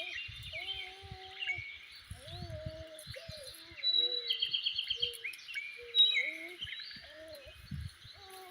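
Several wild birds chirping and calling, with a quick trill about four seconds in. A lower wavering tone comes and goes beneath them, along with scattered dull knocks.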